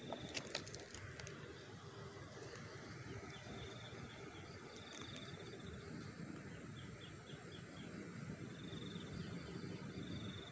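Faint riverbank ambience: a small bird repeats a short, fast, high trill several times, once breaking into a run of about six quick chirps, over a steady high hiss. A few sharp clicks sound in the first half second.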